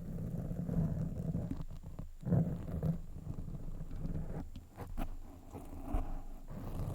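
Fingers scratching directly on a microphone: a dense, dull, low scratching rumble that swells and eases unevenly, with a few sharp clicks.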